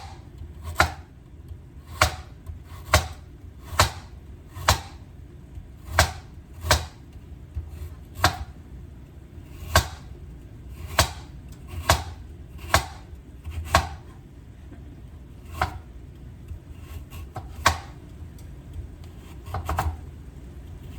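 Kitchen knife chopping carrots on a cutting board: sharp single knocks at an uneven pace of roughly one a second, some coming in quick pairs, as the carrots are cut up small.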